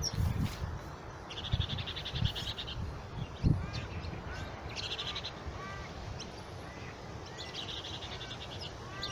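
Birds calling: a fast, rattling call high in pitch comes three times, about a second in, around four seconds, and again from about six and a half seconds, with several short chirps between. A few low thumps are also heard.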